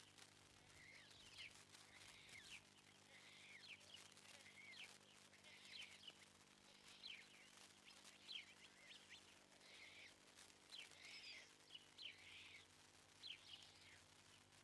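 Faint bird chirps, short and falling in pitch, repeated about once or twice a second over a steady low hum.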